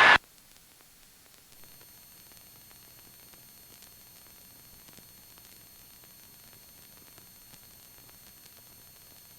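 Faint, steady electronic hiss from the helicopter's headset intercom feed, with a few thin high-pitched whines. A voice cuts off abruptly just after the start, as if the intercom squelch has closed, and the engine and rotor are not heard.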